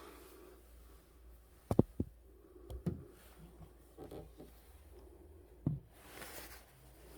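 A few separate sharp knocks and thuds, with a short hiss near the end, against quiet room tone.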